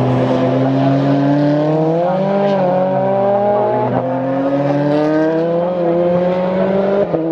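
Several Formula 4 race cars' engines accelerating together. Their pitch climbs steadily, with a gear change about four seconds in and another near the end.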